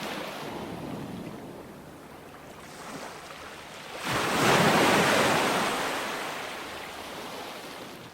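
Ocean waves rolling onto a beach, a steady wash of surf. About four seconds in a wave breaks with a sudden surge, then its wash slowly fades.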